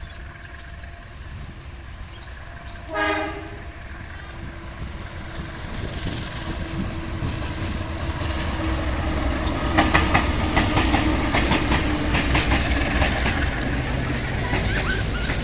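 Passenger train headed by two diesel locomotives: a short horn blast about three seconds in, then the locomotives' rumble growing louder as the train approaches and passes, with wheels clacking over rail joints from about ten seconds on.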